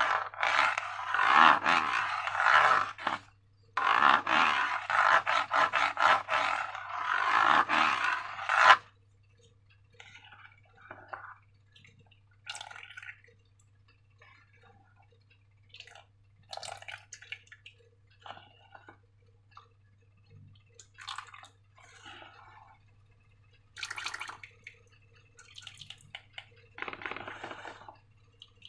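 Slime being squished and worked by hand: two long stretches of dense, wet crackling in the first nine seconds, then short, scattered, quieter squelches. A faint low hum runs underneath.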